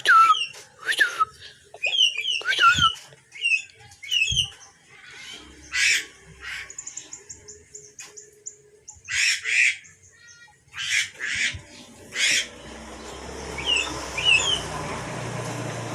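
Yellow-vented bulbul calling: quick sliding chirps for the first few seconds, then a string of harsh squawks. A steady hiss comes in about two-thirds of the way through.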